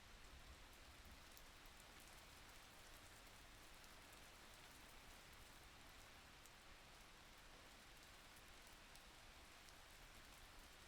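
Faint, steady rain falling, an even hiss with scattered light drop ticks.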